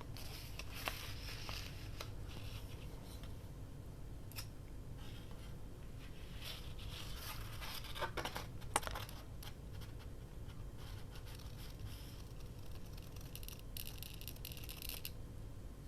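Faint handling of washi tape and paper: light scraping and rustling with a few small clicks, loudest about halfway through.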